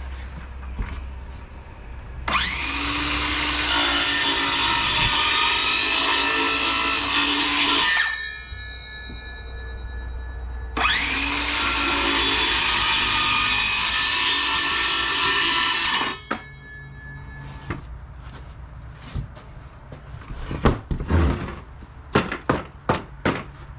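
Circular saw making two plunge cuts through plywood, each about five seconds long: the motor whines up to speed, cuts, then winds down with a falling whine. Afterwards a run of sharp knocks and clatter.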